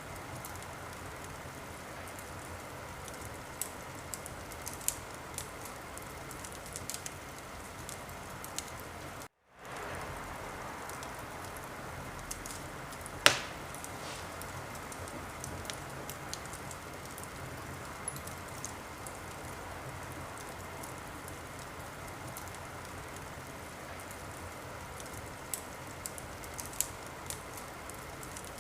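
Wood fire crackling in a fireplace: a steady hiss with scattered sharp crackles and one loud pop a little before halfway. The sound cuts out for a moment about a third of the way in.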